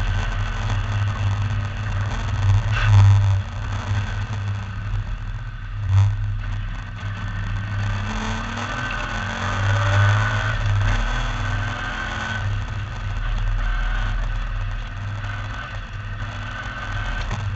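MGB V8 race car's V8 engine at racing speed, heard onboard under a heavy low rumble, its note climbing and falling as the driver accelerates, lifts and changes gear. A sharp knock comes about six seconds in.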